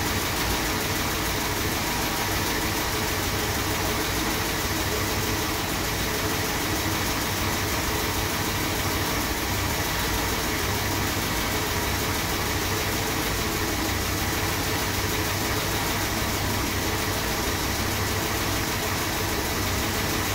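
Freshly rebuilt Chrysler 440 big-block V8 idling steadily just after its first start-up.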